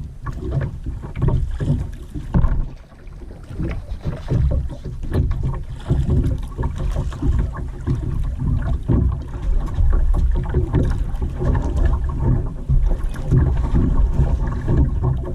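Kayak on the water under paddle, with water splashing and sloshing as the paddle strokes. A heavy, uneven low rumble runs underneath, typical of wind buffeting the microphone.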